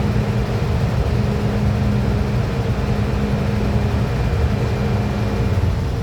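MTR M-Train electric multiple unit heard from inside the carriage, running with a steady low rumble and a steady hum over it.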